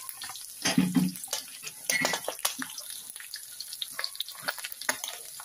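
Minced garlic and pork cubes sizzling in oil in a wok as the garlic fries toward golden brown, with many small crackling pops throughout. A spatula scrapes and stirs through the pan about a second in.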